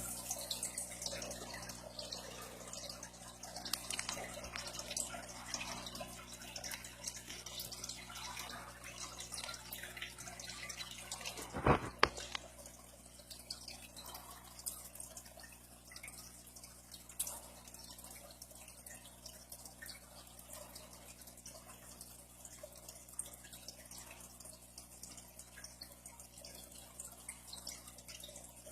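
Faint, irregular clicks and ticks over a low steady hum, with one louder knock about twelve seconds in.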